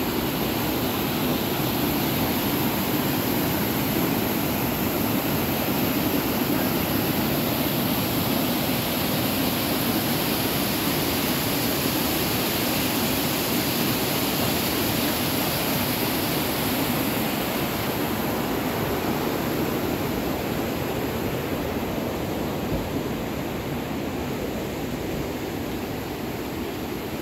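Waterfall: a steady, even rush of falling water, a little quieter over the last several seconds.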